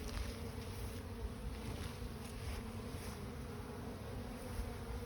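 A honeybee swarm buzzing, many bees humming together in a steady drone.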